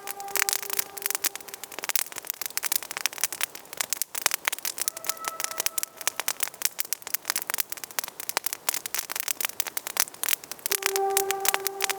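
Wood campfire crackling with dense sharp snaps and pops. A steady whistling tone sounds three times: at the start, higher-pitched around the middle, and again near the end.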